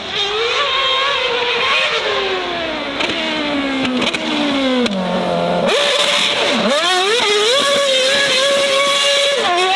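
High-revving racing car engines at full throttle. In the first half one engine's pitch falls steadily. After an abrupt cut about halfway, another engine screams upward and drops back with quick gear changes.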